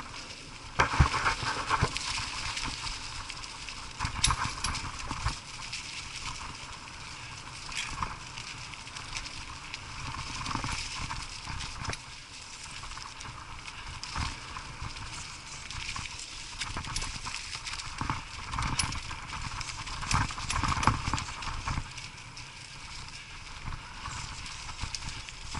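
Mountain bike riding over a rough dirt trail: a steady hiss of rolling and rushing air, broken by frequent irregular knocks and rattles of the bike over bumps.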